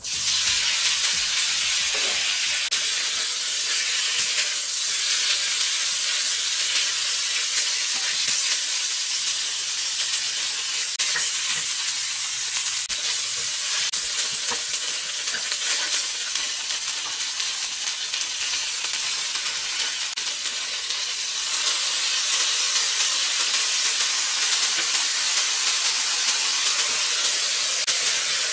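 Stir-fry sizzling in hot oil in a nonstick wok: the sizzle breaks out at once as sliced onion goes into the oil, and goes on steadily while the onion, and later flat rice noodles with shrimp, are stirred and tossed with wooden spatulas. The sizzle grows a little louder past the two-thirds mark.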